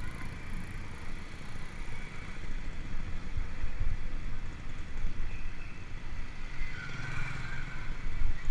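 Uneven low rumble of wind buffeting the microphone and tyre noise from a mountain bike being ridden. A faint higher sound rises briefly about seven seconds in.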